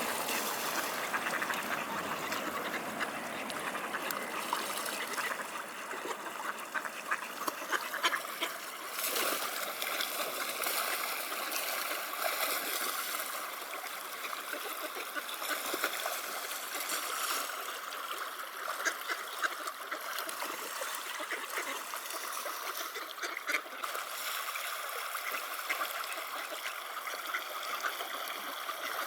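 Mallards quacking and splashing in the water, over the steady sound of flowing river water, with many short splashes throughout.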